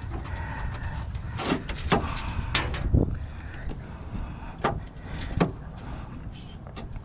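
A hand tool scraping and picking at old seam sealer and rust on a car's sheet-metal body: about half a dozen short, sharp scrapes and knocks at irregular intervals.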